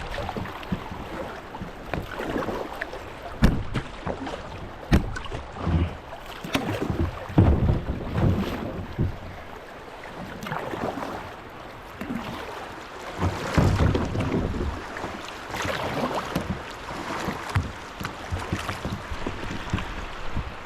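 Kayak paddling in a rocky creek: paddle strokes splashing in the water with irregular knocks, and wind on the microphone.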